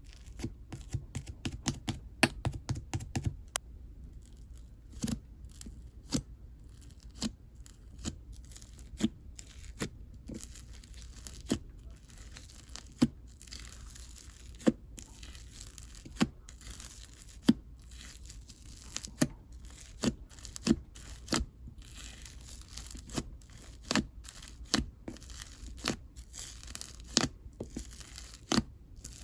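Fluffy clay slime being handled: soft squishing with sharp sticky pops and crackles. A quick run of pops comes in the first few seconds, then about one a second.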